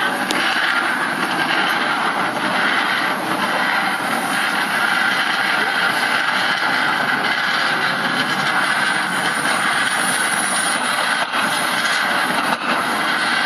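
Steady, loud noise of a heavy demolition excavator at work, its engine running with continuous clatter and grinding.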